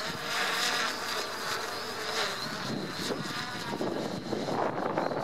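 3DR Iris+ quadcopter's four motors and propellers buzzing in flight, the pitch wavering up and down as the motors adjust.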